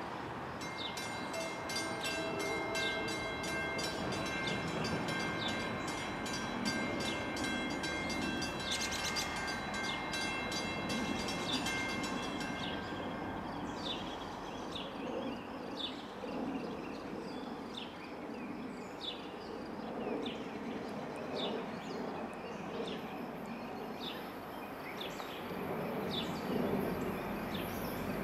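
Commuter train running through the station with a steady rumble; a bell rings in evenly repeated strokes for the first twelve seconds or so, then stops.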